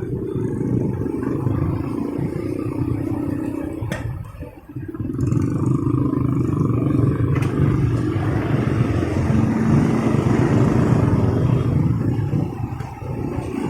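Motorcycle engine running on the move, with wind and the noise of surrounding traffic. It eases off briefly about four seconds in, then picks up again and runs louder.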